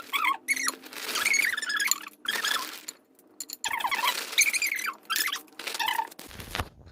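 Plastic packaging being handled and opened, crinkling in several bursts with short high squeaks and a brief pause partway through.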